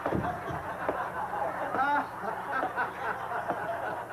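Audience laughter: many people laughing together at once.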